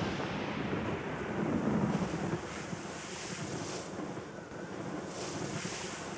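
Wind gusting: an even rushing noise that swells and fades a few times.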